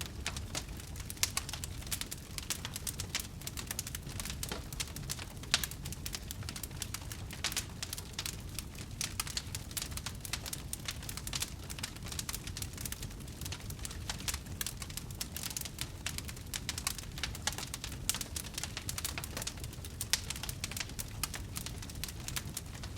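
Wood fire crackling in a fireplace: many small irregular pops over a low, steady rumble of the flames.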